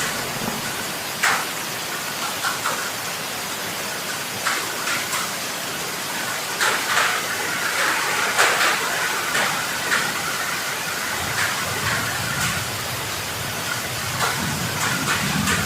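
Heavy rain falling steadily, a dense hiss broken by frequent sharper splashes and drips.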